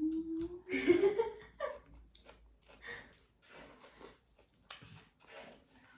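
A voice gives a drawn-out rising sound for about the first second, then soft scattered clicks and smacks of people eating a meal.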